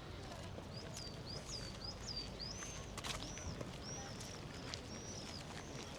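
A small songbird calling in a quick series of short, high, hooked chirps, two or three a second, over a steady low hum of city background noise.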